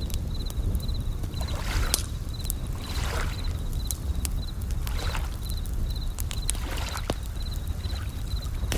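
Bell crickets (suzumushi) chirping in short, evenly repeated high trills, over a crackling campfire with sharp pops and waves washing in several soft swells, with a steady low rumble beneath.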